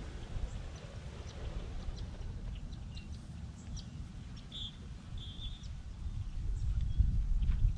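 Scattered short bird chirps and calls over a steady low rumble, which grows louder near the end.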